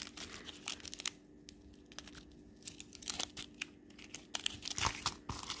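Small plastic packets of diamond painting drills being handled, crinkling and rustling with scattered sharp clicks, over a faint steady hum.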